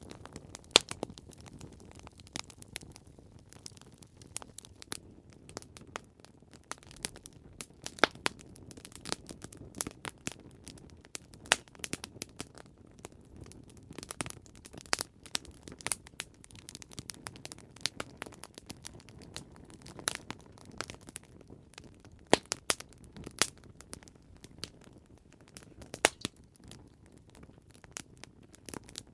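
Wood fire crackling: irregular sharp pops and snaps, several a second, over a soft low rush of the burning.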